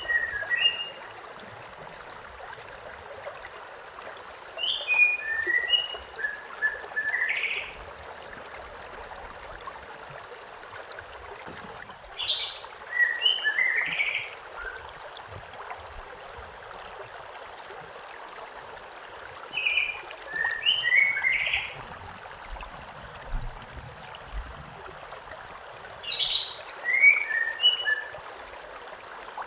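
A songbird sings the same short phrase, a quick run of high chirping notes lasting two or three seconds, five times about every six to seven seconds, over the steady rush of a stream.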